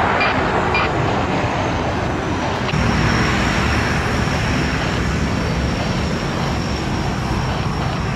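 Jet airliner engines running: a steady loud rush, with a thin high whine that sets in about three seconds in and holds.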